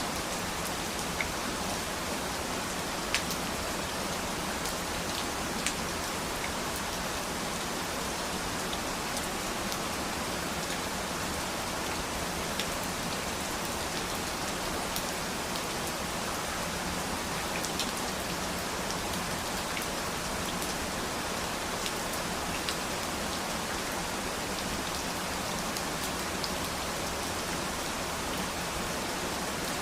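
Steady rain falling on a surface, an even hiss with scattered sharper ticks of individual drops landing.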